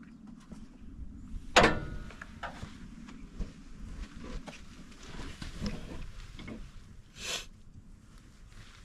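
Metal clanks and knocks of hand tools being worked on farm machinery, the loudest a sharp metallic clank with a short ring about a second and a half in, then lighter scattered knocks.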